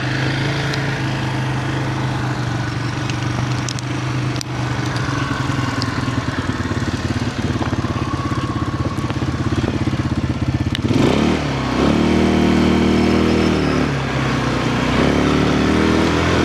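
Quad bike (ATV) engine idling steadily, then revving up about eleven seconds in and holding a higher note. It dips briefly and rises again near the end.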